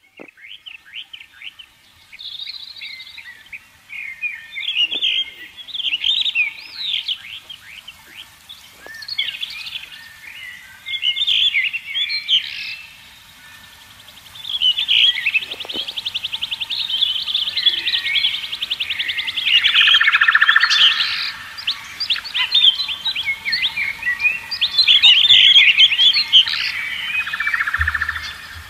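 Birds chirping and twittering, with many short calls overlapping. A fast, even trill runs for a few seconds about halfway through.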